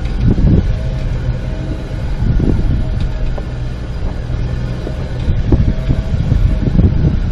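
Off-road 4x4 vehicle's engine running at low revs as it crawls along a rocky trail, with wind buffeting the microphone and a few knocks and bumps.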